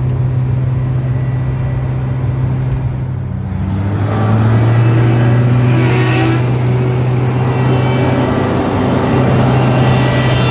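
Komatsu PC1250-8 excavator's diesel engine running steadily. About four seconds in it takes on load and runs louder as the hydraulics are worked, with an added rushing hiss, strongest around six seconds. This is the test that reproduces the hydraulic pump's abnormal noise.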